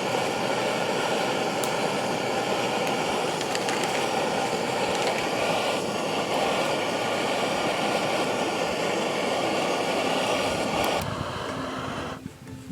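Steady mechanical running noise of a vehicle engine, with a constant hum. It stops abruptly about eleven seconds in, leaving a quieter background.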